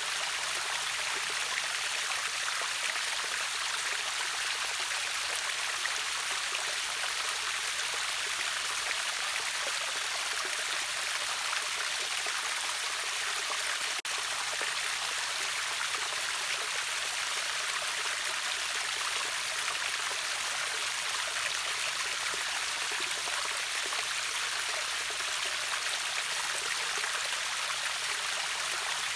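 Water rushing steadily over a small river waterfall: an even, high-pitched hiss of falling and flowing water with little low rumble.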